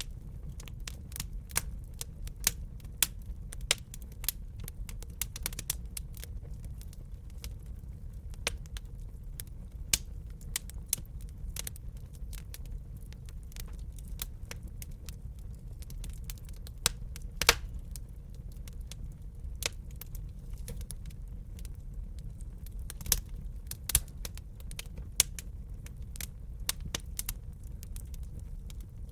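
Wood burning in a fireplace, crackling with irregular sharp pops and snaps, a few much louder than the rest, over a steady low rumble.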